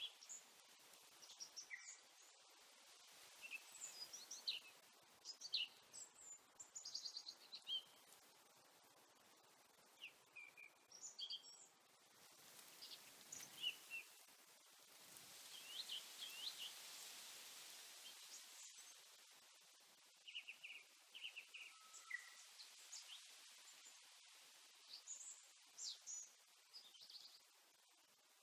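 Faint outdoor ambience of small birds chirping and trilling in short, scattered calls, over a soft rushing background that swells for several seconds around the middle.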